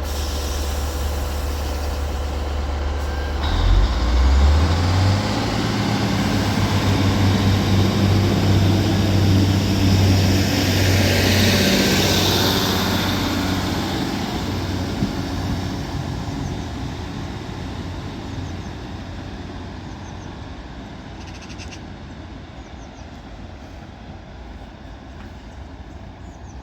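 Northern Class 150 Sprinter diesel multiple unit departing: its underfloor diesel engines idle, then power up about four seconds in and run loud as the train pulls away. A rush of noise peaks as it goes past, then the sound fades steadily as it leaves.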